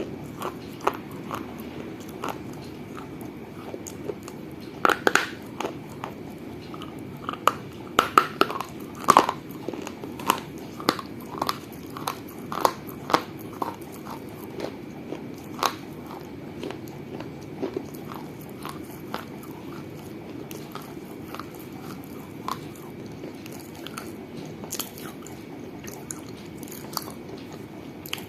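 Pieces of a mini baked-clay piggy bank (gullak) being bitten and crunched between the teeth: irregular sharp cracks and crunches, several a second at the busiest, thickest about five seconds in and again around eight to nine seconds in.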